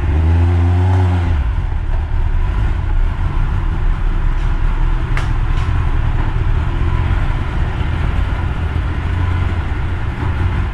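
Motorcycle engine running, its pitch dipping and then rising in the first second or so, then giving way to a dense low rumble to the end. A single sharp click about five seconds in.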